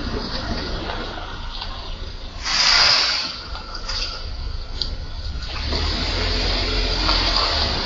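Traffic and road noise picked up by a car's dash camera, a steady rushing hiss with a loud swell of hiss lasting under a second about two and a half seconds in.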